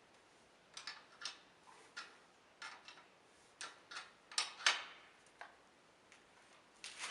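Irregular light clicks and taps, about a dozen, spaced unevenly and loudest a little past the middle, like small hard parts or tools being handled.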